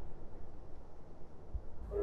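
Faint low rumble of a distant train, fading away. Near the end a steady gong-like music tone swells in.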